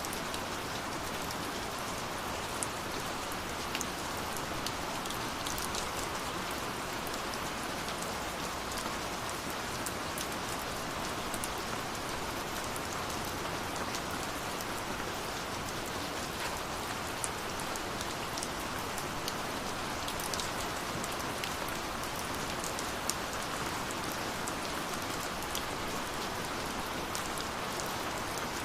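Steady rush of falling water from a waterfall, with the scattered pops and snaps of a crackling wood fire over it.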